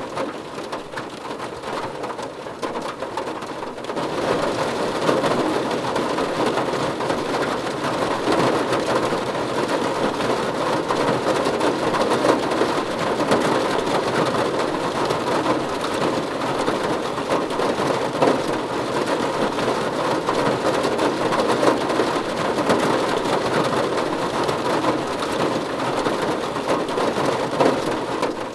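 Heavy rain falling steadily, a dense even patter that grows louder about four seconds in and then holds.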